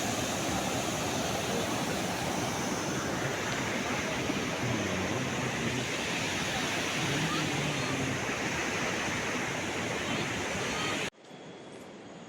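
Steady rushing of water in heavy rain, cut off abruptly about eleven seconds in, after which only a much quieter hiss remains.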